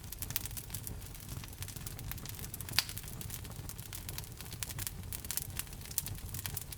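Wood fire burning in a fireplace: a steady low rumble of flames with frequent irregular crackles and small pops, one sharper pop about three seconds in.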